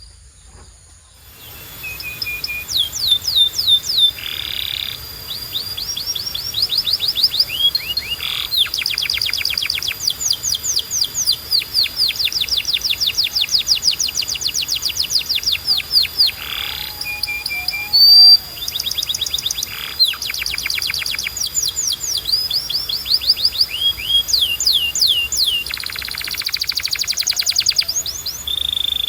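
A canary singing a long, continuous song of rapid trills: fast runs of repeated downward-sweeping notes, broken by short held whistles and a few brief harsher notes.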